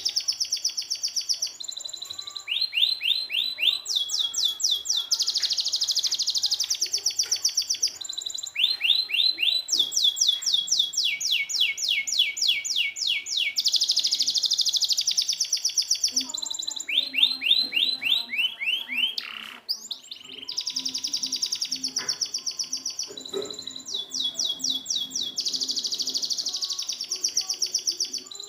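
Domestic canary singing a long, continuous song of rapid trills and fast repeated-note phrases, several of them sweeping downward in pitch, with short breaks between phrases.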